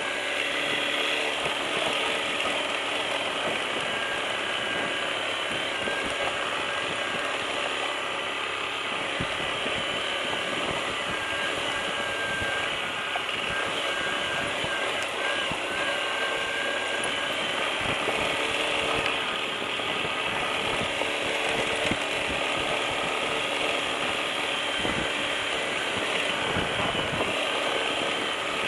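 Motorcycle engine running steadily with a busy mechanical clatter and ticking.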